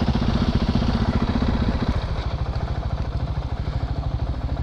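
Yamaha YZ450FX dirt bike's single-cylinder four-stroke engine running under throttle, easing off about two seconds in and carrying on at lighter throttle.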